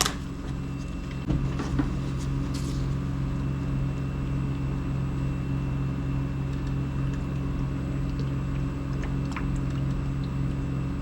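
A steady low mechanical hum with a click about a second in, after which it is a little louder, and a few faint clicks later.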